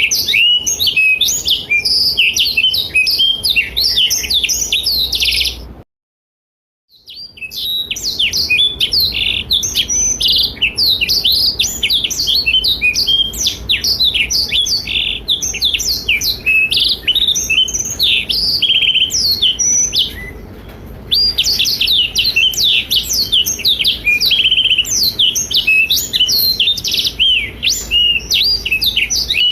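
Blackthroat (black-throated canary) singing a long, fast, unbroken run of high twittering trills and chirps. The song cuts out completely for about a second, about six seconds in, and eases briefly about twenty seconds in.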